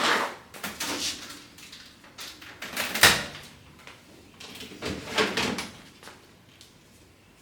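A series of household knocks and clunks with rustling, like doors or drawers being handled; the loudest is about three seconds in.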